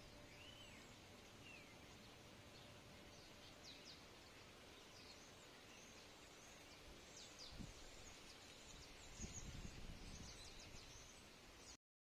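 Faint birdsong outdoors: scattered short, high chirps and a couple of arched calls over a quiet background, with a few low bumps on the microphone in the second half. The sound stops abruptly near the end.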